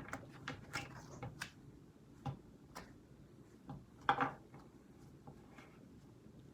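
Light, irregular clicks and taps of tarot cards being handled and laid down on a table, with a louder tap about four seconds in.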